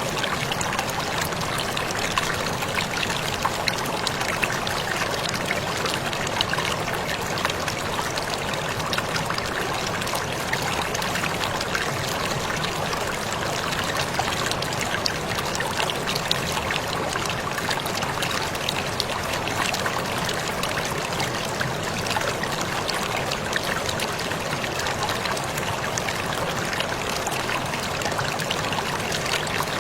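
Waterfall splashing steadily: an even rush of falling water, peppered with many small splashes and drips.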